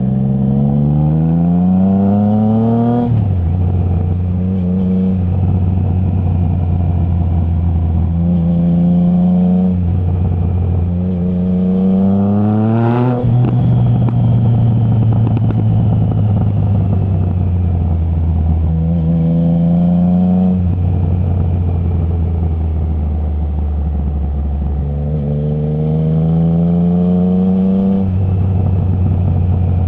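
Triumph Trident 660's inline-three engine through a Zard stainless full exhaust with the baffle removed, pulling hard through the gears: the revs rise several times and drop abruptly at each quickshifter upshift, with steadier running between pulls. A sharp crack from the exhaust comes at the top of the pull about a third of the way in.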